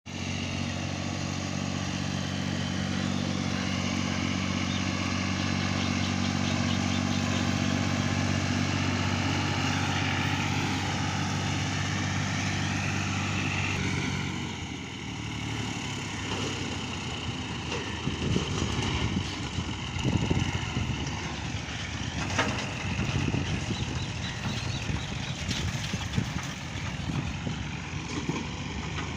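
Fiat tractor's diesel engine running with a steady note, then about halfway through turning rougher and uneven, with irregular surges as it works.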